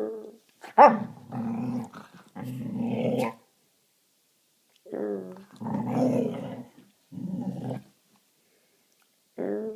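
A dog growling and grumbling in a series of drawn-out vocal bouts, about five in a row with short gaps between.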